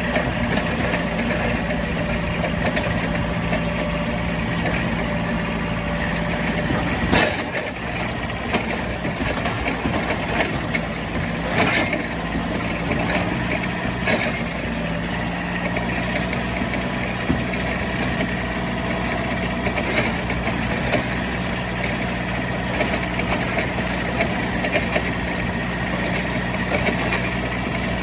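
A vehicle engine idling steadily, with a few sharp knocks or clanks partway through.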